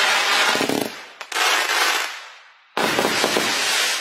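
Aerial fireworks bursting with dense crackling, in three loud waves of about a second each. The second wave comes in just over a second in, and the third a little before three seconds in.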